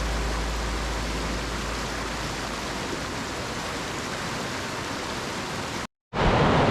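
Steady, even rushing noise of water, with no distinct events. It cuts out completely for a moment near the end.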